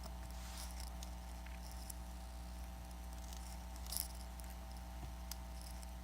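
Faint small clicks, taps and rustles of hands and tools working on an opened iPad Air 2, with a slightly louder short scrape about four seconds in, over a steady electrical hum.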